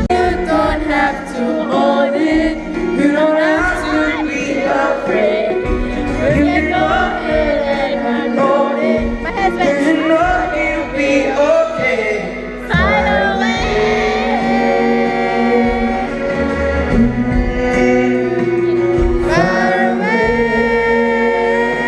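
Live pop concert music: a band playing under sustained singing, loud and continuous.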